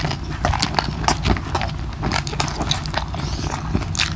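Close-up chewing of crispy lechon kawali (deep-fried pork belly), a run of irregular crunches and clicks from the crackling skin.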